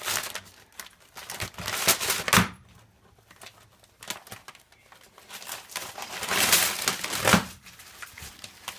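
Gift wrapping paper crinkling and tearing as a dog pulls it off a present with its teeth, in two spells of rustling bursts with a lull between.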